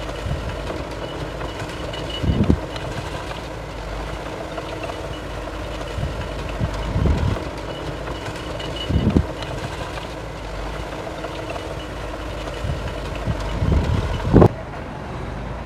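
Diesel earthmoving machinery at work, a bulldozer and a dump truck. Engines run steadily, with several louder low surges and knocks. A faint high beeping tone comes and goes, typical of a truck's reversing alarm.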